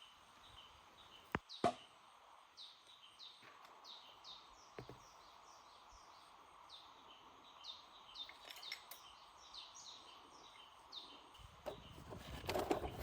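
Birds calling faintly: a steady series of short, high, downward-sweeping chirps, a couple each second. Two sharp knocks come about a second and a half in, and rustling, clattering noise rises near the end.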